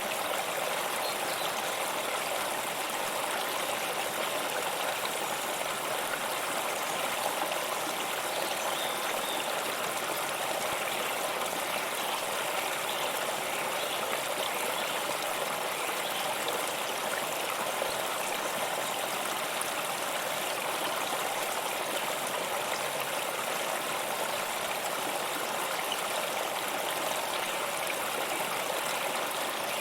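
Stream of water running and splashing steadily, a continuous rushing with small trickles and no change in level.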